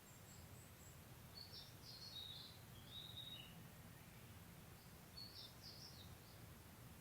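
A small songbird calling faintly in two short bursts of high chirps and twitters, one about a second and a half in and another about five seconds in, over a steady, faint low background rumble.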